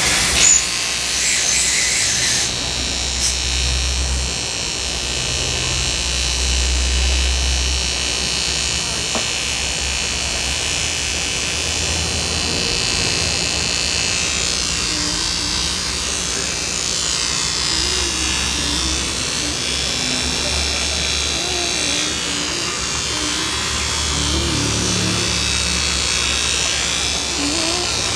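A small electric power tool running steadily with a high whine.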